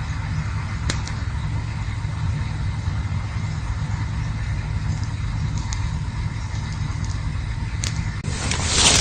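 Campfire burning with a steady low rumble and a few sharp crackling pops. In the last second a sudden, louder rush of noise sweeps in.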